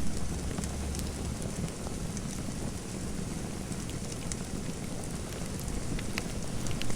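Fire crackling in a fireplace: a steady hiss with scattered sharp pops.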